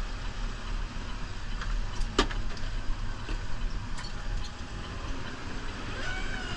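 New Holland Powerstar 75 tractor's diesel engine running steadily, with a single sharp clack about two seconds in.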